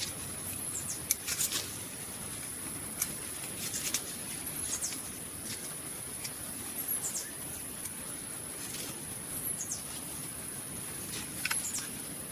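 Light rustling and clicking from handling leafy vines while bitter melons are picked, with several brief falling chirps and a steady high-pitched tone throughout.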